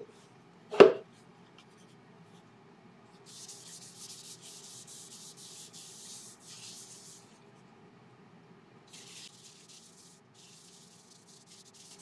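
Danish oil being wiped onto a laburnum wood bowl by hand: soft rubbing strokes in two spells, the first lasting about four seconds and the second about one. A single sharp knock comes about a second in.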